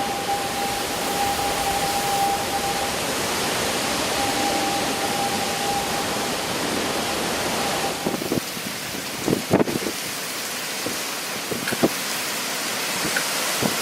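Hurricane-force wind and heavy rain making a steady loud rushing hiss, with a thin steady tone under it for about the first two-thirds. A few short low thuds come near the end.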